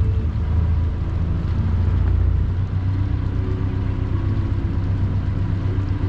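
Small river ferry boat's engine running steadily with a low drone, its note shifting slightly about two and a half seconds in.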